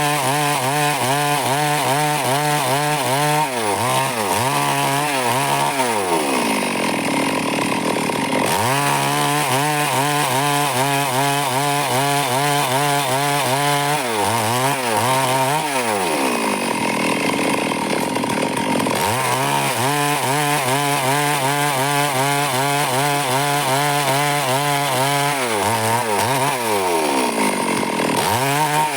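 Stihl two-stroke chainsaw cutting wood at full throttle, with wavering engine pitch under load. Three times the revs fall away as the throttle is let off and then climb back as the next cut begins.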